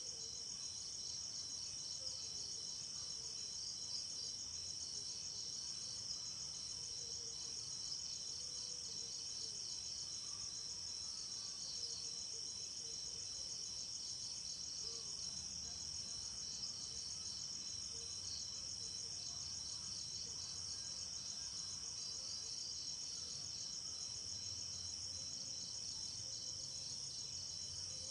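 Crickets trilling in a steady, high, finely pulsing chorus, unbroken throughout, with a faint low rumble beneath.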